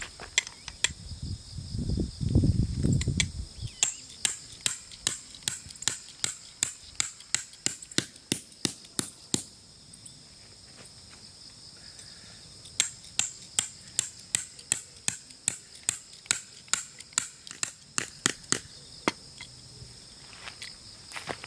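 Tent pegs being hammered into the ground: two long runs of quick, sharp strikes, about three to four a second, pausing for a few seconds in between. Insects trill steadily and high in the background, and a brief low rumble comes about two seconds in.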